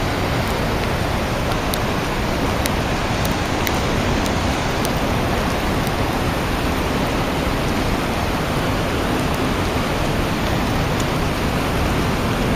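Steady rush of Yosemite Creek's fast-flowing water above the falls, with a few faint ticks scattered through it.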